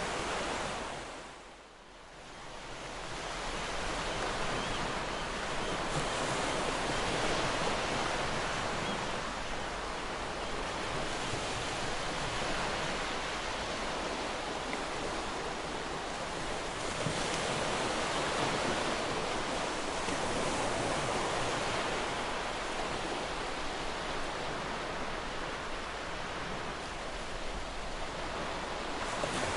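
Ocean waves washing onto a beach: a steady rush of surf that swells and eases in slow surges. About a second in, the sound fades briefly almost away and then builds back up.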